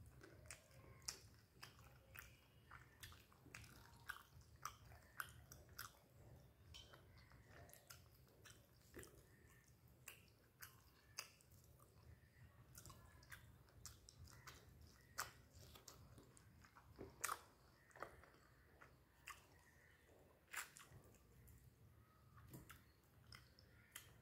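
Close-miked chewing and lip smacking as rice and fish are eaten by hand, with irregular sharp wet clicks.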